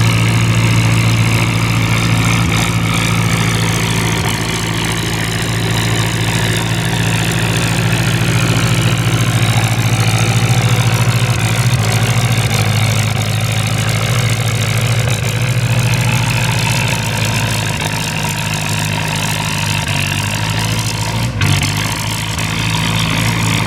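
Antique tractor engine running steadily at low speed, its deep tone holding even throughout.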